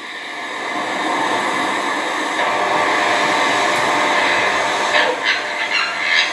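Steady rushing noise that builds over the first second and holds, with a few short bird calls about five seconds in.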